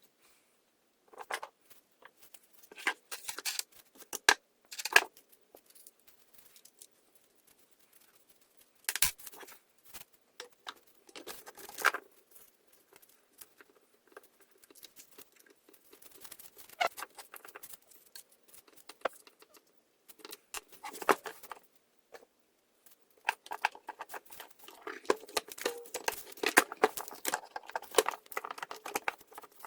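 Handling of small parts and tools: scattered clicks, taps and rustling, growing busier and more continuous over the last several seconds. No engine is running.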